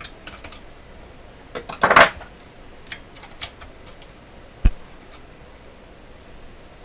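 Clicks and clatter of tools and small parts being handled on a workbench, with a louder scraping clatter about two seconds in and a single dull thump a little after the middle.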